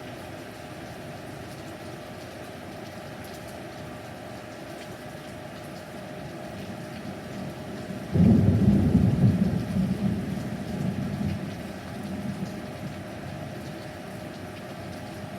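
Steady rain, then about eight seconds in a sudden loud clap of thunder that rumbles on for a few seconds and fades.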